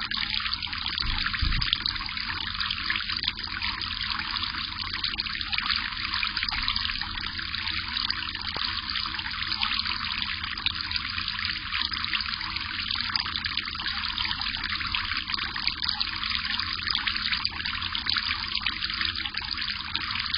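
Water trickling and dripping steadily.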